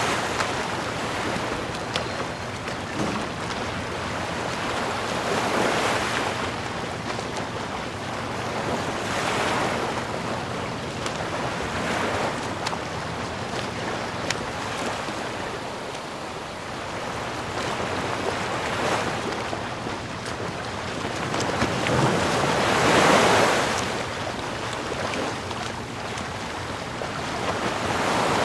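Sea waves breaking and washing up the shore, rising and falling in swells every few seconds; the loudest swell comes about three quarters of the way through.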